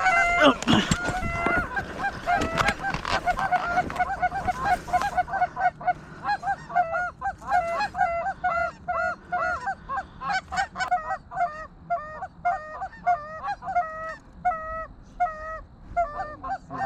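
Geese honking: a dense, overlapping chorus for the first few seconds, then a steady run of regular honks, about three a second.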